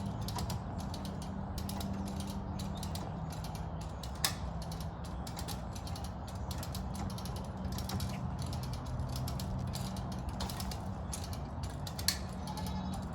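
Ratchet strap being cranked tight, its pawl clicking rapidly over and over, with a couple of sharper clicks, over a low steady hum. The strap is being tensioned to pull a broken post upright.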